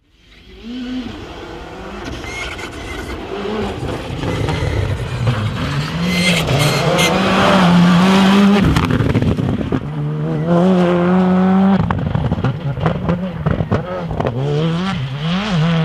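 Rally car driven hard, its engine revving high and dropping pitch at each gear change, growing louder to a peak about eight seconds in, with a short break in the engine note just after the peak.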